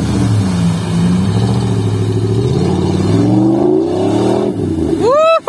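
An off-road vehicle's engine revving, its pitch falling and rising repeatedly. A rising vocal cry near the end.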